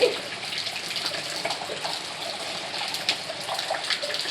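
Steady rain with running water, a constant hiss flecked with small scattered splashes.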